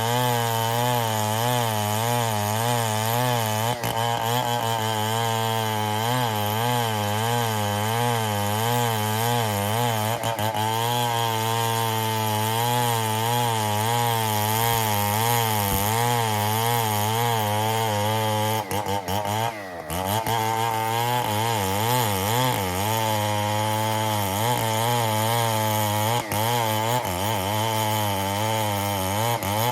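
STIHL 070 two-stroke chainsaw running hard while cutting ironwood, its engine pitch wavering steadily up and down. About two-thirds of the way through, the engine note briefly sags in pitch and level, then picks back up.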